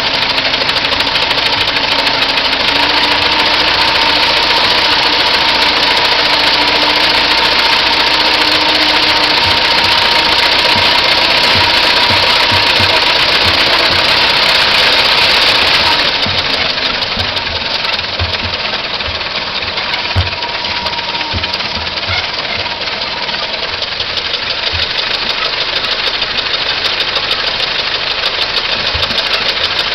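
1909 Ford Model T's four-cylinder engine running, with scattered irregular low thumps. About sixteen seconds in, the sound drops a little and turns duller.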